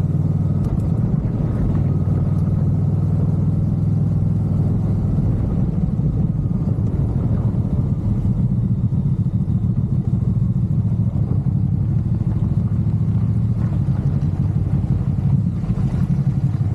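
Motorcycle engine running at a steady pace while riding, carrying a pillion passenger.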